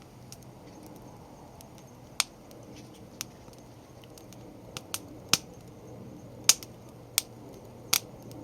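Conifer firewood burning in a small fire stand, crackling with about eight sharp, irregular pops over a faint steady hiss.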